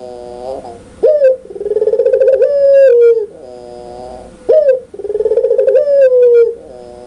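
Puter pelung (domestic barbary dove) cooing loudly. Each call is a short sharp rising note followed by a long rapidly pulsed coo that slides down at its end, and the call comes twice.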